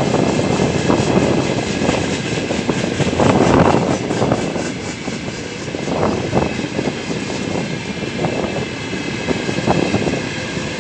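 Freight train rolling past: a steady rumble of wagon wheels on the rails, with a few knocks from the wheels and couplings along the way.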